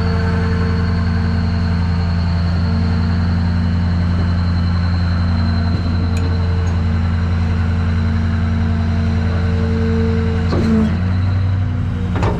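Engine idling steadily with a deep, even hum and a faint high whine, with a brief clunk near the end.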